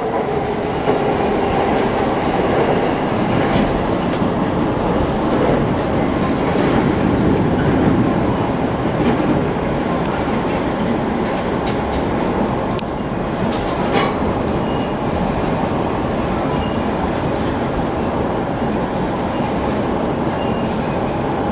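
Joban Line commuter train running at speed, heard from inside the passenger car: a steady rumble of wheels on rail. There is a sharp click about 14 seconds in, and faint high wheel squeals in the second half.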